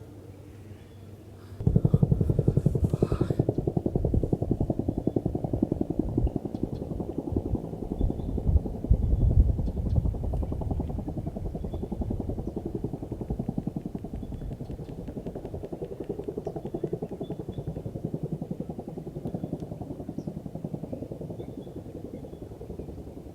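Military helicopter's rotor beating in a fast, even chop. It comes in suddenly and loud over a second in, is loudest a few seconds later, then slowly fades.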